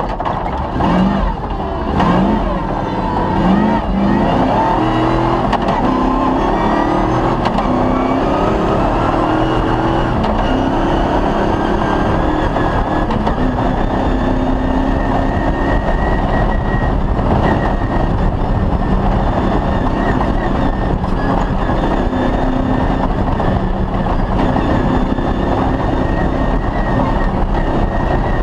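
Off-road rally car's engine under hard load, revving up through quick gear changes in the first few seconds, then climbing slowly and holding at steady high revs.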